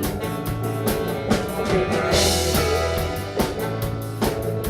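Live rock band playing an instrumental passage between sung lines: a drum kit keeps a steady beat under guitar and bass, with a bright wash of high hiss about two seconds in.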